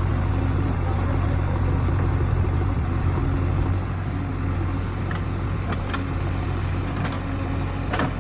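Diesel engine of heavy machinery running steadily at low revs. It drops slightly in level about four seconds in, and a few short sharp knocks sound near the end.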